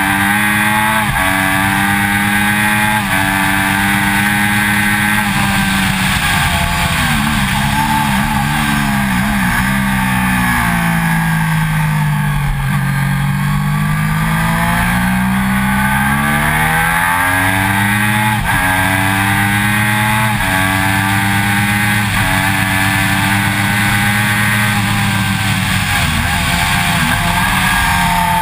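2006 Triumph Daytona 675's three-cylinder engine running hard on track. Its pitch climbs and then steps with quick gear changes, falls slowly about ten seconds in as the bike slows, and rises again through more gear changes.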